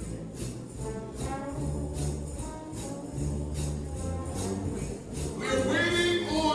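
Trombone shout band playing gospel, with a tambourine keeping a steady beat over a sustained bass line; the horns swell louder near the end.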